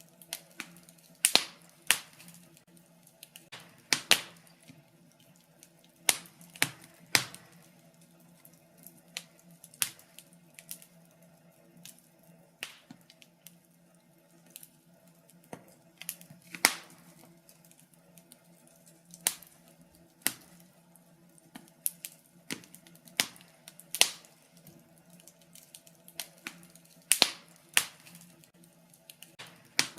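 Wood fire crackling in a fireplace, with sharp irregular pops and snaps about one or two a second. A faint steady hum sits underneath.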